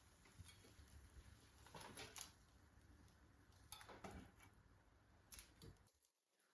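Near silence with a few faint, short clicks and light knocks of kitchen items being handled, spaced a second or two apart.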